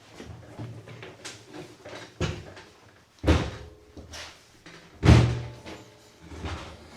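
A door being lifted and fitted back onto its hinges: a run of knocks and bumps, with louder thuds about two and three seconds in and the loudest about five seconds in.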